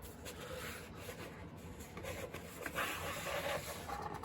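Paper and cardboard rustling and sliding as items are handled and pulled out of a gift box, loudest about three seconds in.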